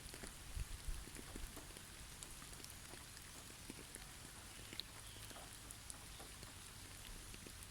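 Faint winter forest ambience: light scattered patters and ticks of falling snow and drips on branches over a steady hiss, with a few louder pats in the first second and a half and a couple of faint short bird chirps near the middle.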